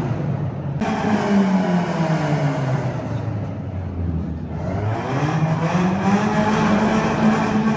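Car engine running with its pitch sinking over a few seconds as the revs drop, then climbing again as it revs back up.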